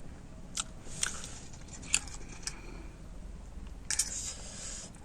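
Close-miked eating of instant noodles: a few sharp clicks and bites, then a short noisy burst about four seconds in.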